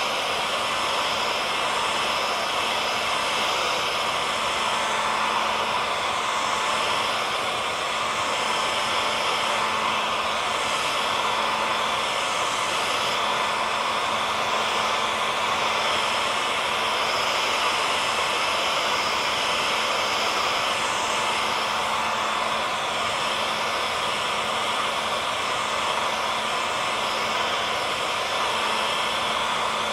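Hair dryer running steadily: a constant airy rush with a low, even motor hum underneath.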